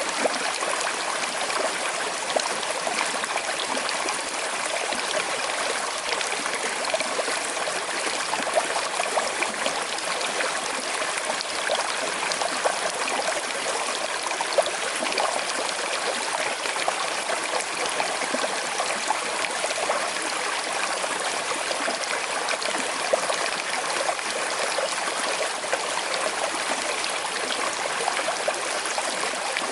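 Small river with a slight current flowing steadily over stones, a constant rushing and trickling with many small splashes.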